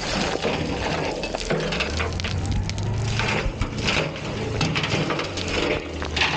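Dump truck running with a low engine hum, under a dense, irregular crunching and crackling of rock and dirt.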